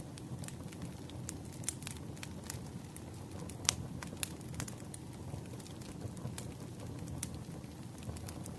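Wood campfire crackling, with irregular sharp pops and snaps over a low steady rumble; one louder pop comes a little before the middle.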